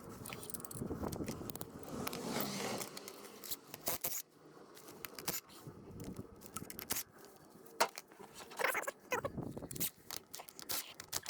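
Irregular scraping and clicking of hand work on parts, with a few sharp knocks, the clearest of them in the second half.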